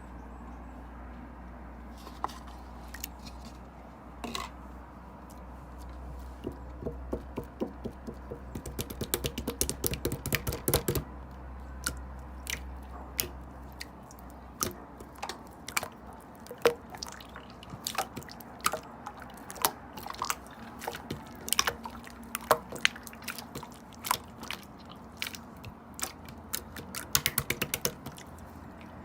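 Purple slime being squished and pressed, making irregular sticky clicks and small pops. The clicks come thick and fast in a run about a third of the way in, and again briefly near the end.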